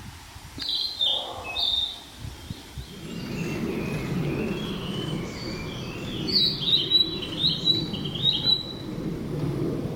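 Narcissus flycatcher singing: a couple of short high phrases about a second in, then a quicker run of repeated high notes from about six seconds in. The song is the bird's imitation of cicada calls. A steady low rumble sits underneath from about three seconds in.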